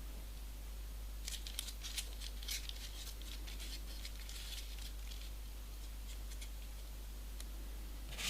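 Folded paper pieces for 3D origami faintly rustling and clicking as they are handled, in scattered short bursts mostly in the first half, over a steady low hum.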